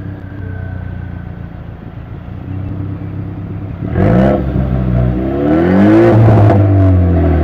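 2017 Ford Mustang EcoBoost's turbocharged 2.3-litre four-cylinder through a Flowmaster Outlaw axle-back exhaust, idling with a deep, steady drone. About halfway through it is revved, and the engine note climbs and falls several times, louder than at idle.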